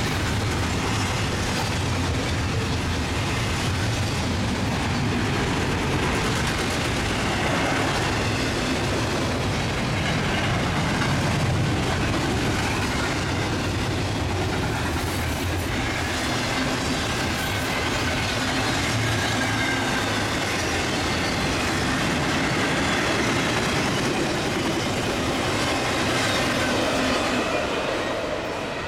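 Long CSX intermodal freight train of double-stack container cars passing close by at speed: a steady, loud rumble of wheels on rail.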